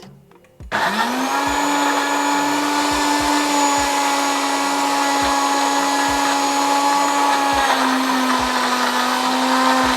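Countertop blender switched on about a second in, its motor spinning up and then running steadily as it purées fruit, vegetables and juice into a smoothie. The pitch drops slightly near the end as the load changes.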